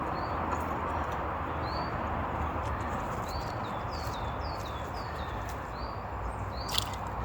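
A small bird calling in a series of short, falling chirps, a dozen or so, over a steady outdoor rush. A few light clicks come through, with a sharper one near the end.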